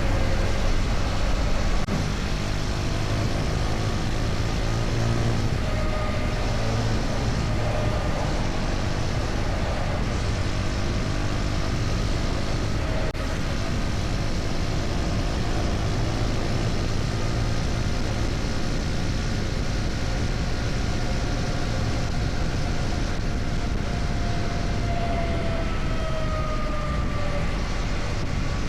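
KTM Duke 250's single-cylinder engine running steadily under a rider at road speed, with road noise. The engine's pitch drifts slowly, and the sound eases slightly about two seconds in.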